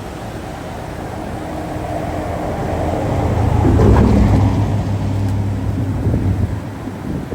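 A motor vehicle passing by: its engine hum and rushing noise build to their loudest about four seconds in, then fade away.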